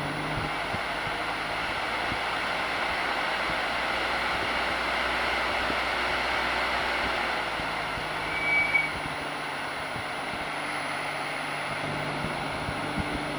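Kity 618's three-phase electric motor, fed from a variable frequency drive, running at a steady speed with a constant hum and whir. A brief higher-pitched tone comes about two-thirds of the way through, and the hum begins to drop in pitch at the very end as the motor slows.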